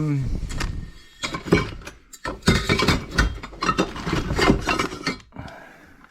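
Pieces of steel exhaust pipe clinking and knocking against each other as they are handled and test-fitted, a string of irregular metallic clanks with short ringing.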